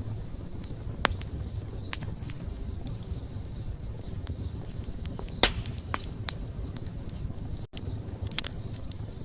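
Wood campfire crackling: a steady low rumble of burning logs with scattered sharp pops and snaps, the loudest about five and a half seconds in.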